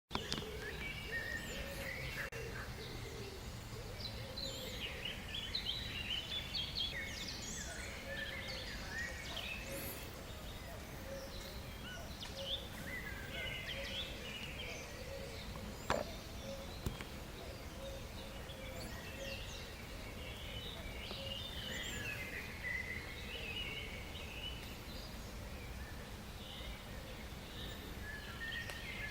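Birds chirping and calling in many short, wavering calls over a steady low background rumble, with a single sharp click about sixteen seconds in.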